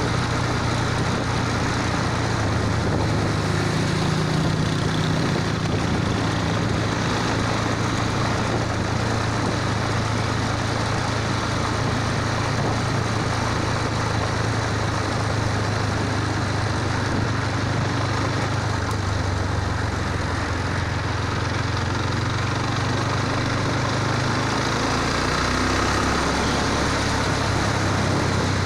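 Motorcycle engine running steadily at an even speed, with a steady hum and a constant rushing noise over it.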